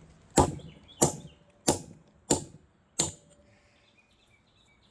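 Five hard metal-on-stone strikes of a railroad spike against a large chunk of milky quartz, evenly spaced about two-thirds of a second apart, chipping at the rock to crack pieces off.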